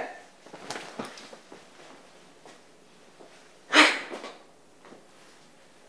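Mostly a quiet room with faint rustles. About four seconds in comes one short, sharp, breathy vocal burst from a man.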